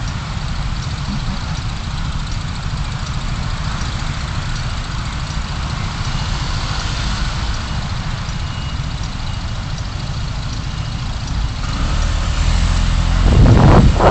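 Car driving, its engine and tyre noise a steady low rumble heard through a dashcam, growing louder near the end with some knocks and bumps.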